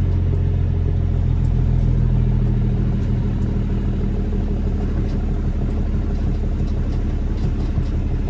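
Straight-piped Caterpillar C13 diesel engine of a Kenworth W900B dump truck running with a steady low drone, easing off slightly about three seconds in.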